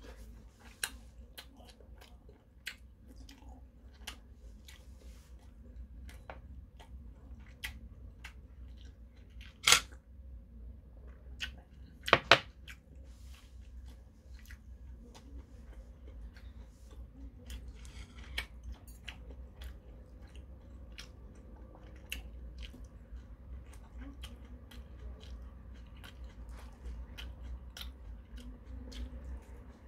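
A man chewing food close to the microphone, with many small clicks throughout and two much louder sharp clicks about ten and twelve seconds in.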